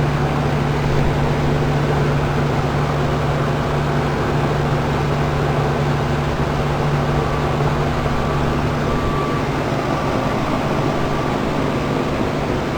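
Outdoor heat pump units running in heating mode: a steady compressor hum with the whoosh of the condenser fans. The Lennox's outdoor coil is heavily iced over and the unit keeps running without going into defrost.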